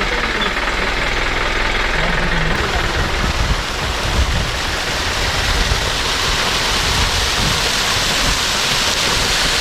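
Jeep driving, its engine under a steady rush of wind buffeting the microphone; the hiss turns brighter about two and a half seconds in.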